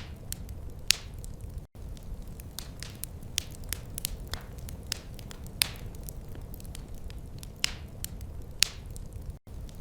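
Wood fire crackling: irregular sharp pops and snaps over a steady low rumble of flames, a few pops standing out louder. The sound cuts out for an instant twice.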